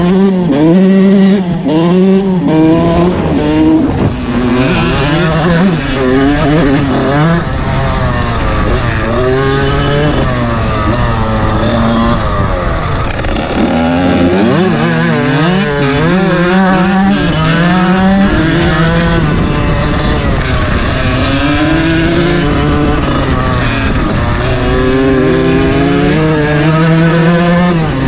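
Single-cylinder two-stroke engine of a 1997 Kawasaki KX80 dirt bike revving up and down again and again as the rider works the throttle through the gears on a trail, heard close up.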